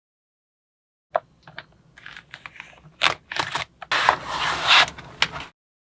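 Small magnetic balls clicking and snapping together, with light scraping and clattering as they are handled, starting about a second in. Several sharp clicks are followed by a longer rattle near the end, and the sound then cuts off.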